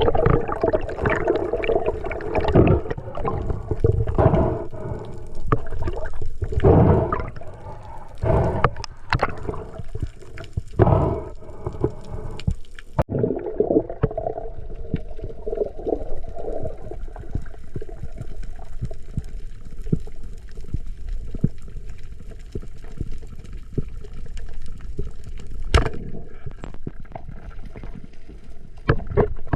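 Underwater water noise: gurgling and bubbling, with irregular bursts during the first half, settling to a calmer, steady wash after about 13 seconds.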